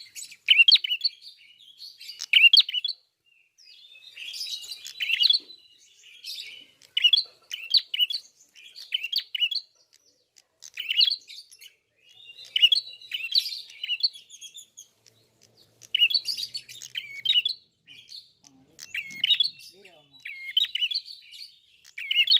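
A prenjak kepala merah (red-headed prenjak) singing at full voice: bursts of sharp, high chirps and trills, repeated every second or so with short pauses between them.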